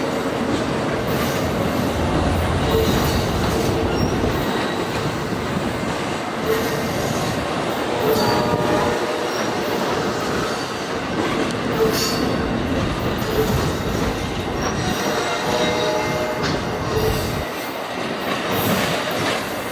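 Amtrak passenger train running past on the rails, a steady loud rumble of wheels and cars with short squeals now and then.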